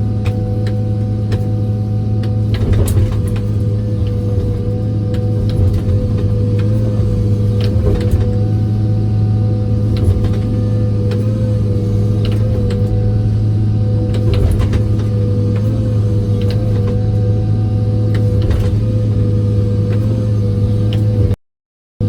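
John Deere excavator's diesel engine running steadily under a steady, slightly wavering whine, with a few scattered clicks and clanks as the machine works. The sound cuts out briefly near the end.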